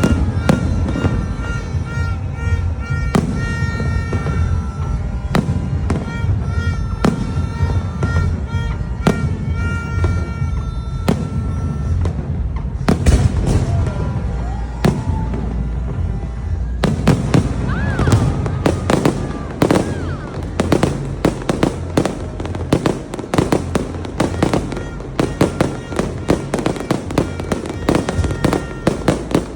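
Fireworks going off in repeated bangs over music with held notes. About halfway through, the explosions thicken into a fast, dense barrage of bangs and crackles, with a few rising whistles.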